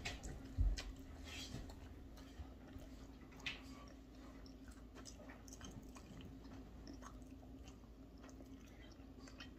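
Quiet chewing with the mouth closed, with scattered faint soft clicks and a low thump about half a second in, over a faint steady hum.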